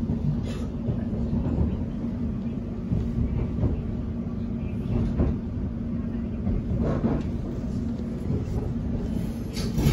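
Interior running noise of a London Overground Class 710 electric train at speed: a steady low rumble with a steady hum, and occasional short knocks from the running gear, the loudest near the end.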